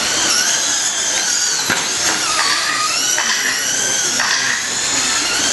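Several radio-controlled short course trucks running on the track, their electric motors whining in overlapping high tones that rise and fall as the trucks accelerate and slow.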